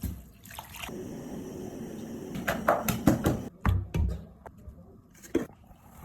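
Kitchen handling sounds during soup-making: a short steady rush of water, then a cluster of knocks and clatters of cookware, with one more knock near the end.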